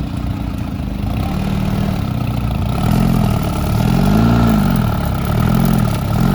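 Car engine running, then revved up and down repeatedly, about four swells in pitch from around three seconds in.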